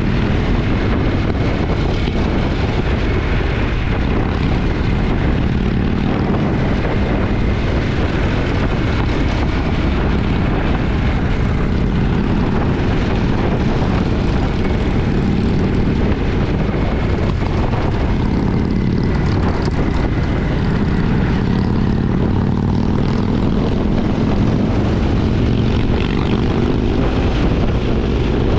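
Motorcycle engine running steadily while riding, a low, even drone with no break or change in pitch.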